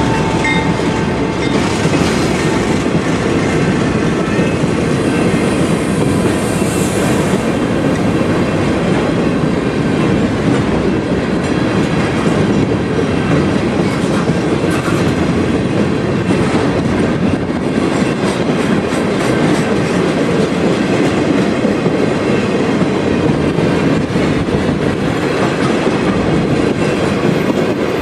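Ballast hopper cars of a freight train rolling past close by: a loud, steady clatter of steel wheels on the rails, with clickety-clack over the rail joints.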